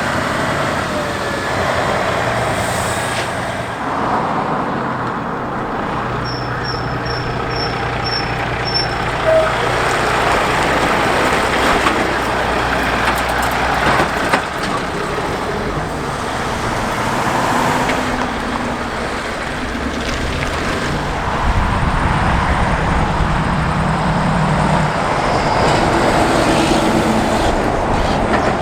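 Heavy truck diesel engine running at low speed, with traffic noise around it. A run of six short, evenly spaced high beeps comes about a quarter of the way through.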